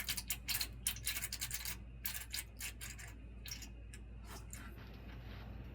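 Irregular sputtering hiss of air and brake fluid spitting in quick short spurts from an opened brake bleeder on a deuce-and-a-half military truck, thinning out and stopping near the end as the line is bled. A steady low hum runs underneath.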